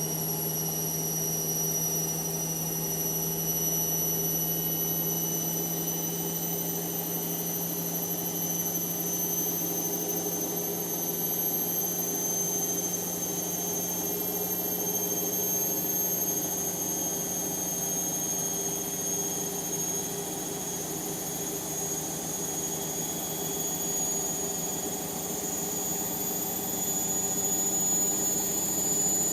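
Indesit washing machine's motor whining at a high pitch over a steady hum, the whine rising slowly and evenly as the drum speeds up in a spin.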